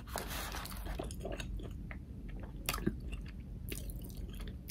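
Close-miked chewing of a mouthful of breakfast burrito, with irregular soft clicks and wet mouth smacks.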